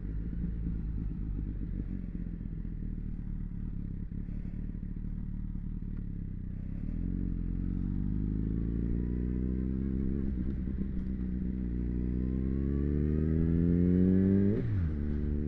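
Motorcycle engine running while riding, the revs fairly steady at first and then climbing steadily over several seconds. Near the end the revs drop sharply and pick up again.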